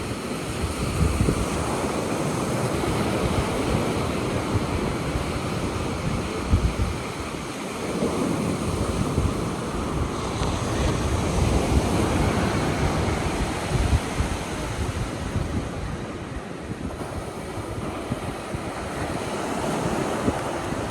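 Ocean surf washing onto the beach, with wind buffeting the microphone in irregular gusts.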